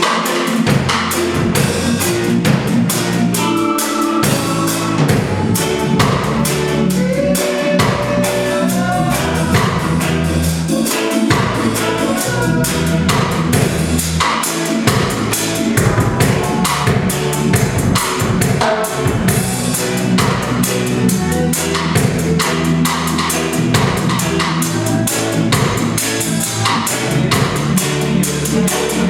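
A band playing instrumental music: a drum kit keeping a steady beat under a bass line, with other instruments over it.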